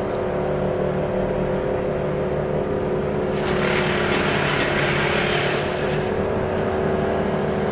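Crane's engine running steadily under load as it lifts a freshly cut tree section, with a rush of hiss for about two seconds in the middle.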